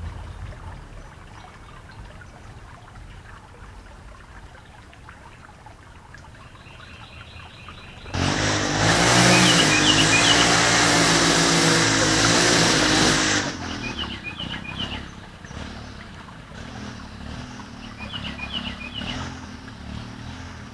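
Small birds giving short bursts of chirps every few seconds over a low hum. About eight seconds in, a loud engine noise starts suddenly and cuts off just as suddenly some five seconds later.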